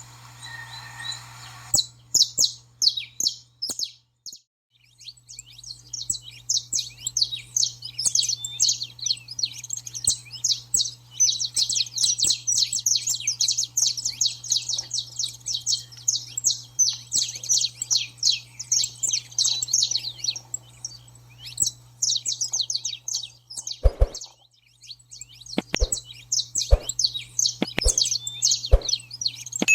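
Saffron finch song: a dense, rapid run of high twittering notes that starts about two seconds in and goes on almost without a break, thinning briefly near the end. A few sharp knocks sound near the end over a steady low hum.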